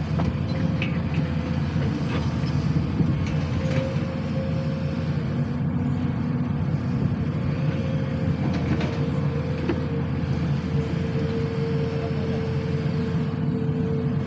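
Sany SY215C excavator's diesel engine running steadily, with a thin steady whine above the engine note and a few faint clicks.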